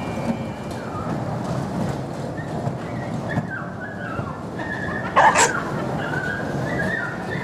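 Small dog whining in a run of short high-pitched cries, distressed by the moving ride, with one louder, sharper sound about five seconds in.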